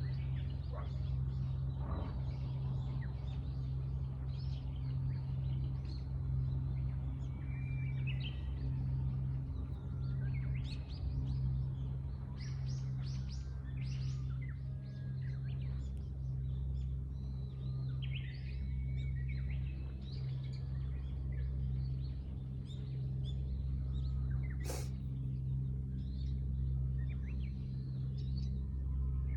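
Small birds chirping and trilling in short, scattered calls over a steady low rumble, with one sharp click near the end.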